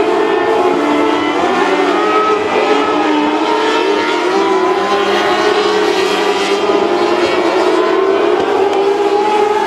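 Several mini sprint race cars' engines running together at speed, their pitches wavering up and down with the throttle.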